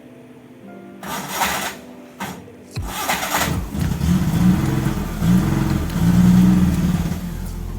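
Maruti Omni's small three-cylinder petrol engine, running on a motorcycle carburetor, revved up and down three or four times in the second half. Before that come two short bursts of hiss and a thump.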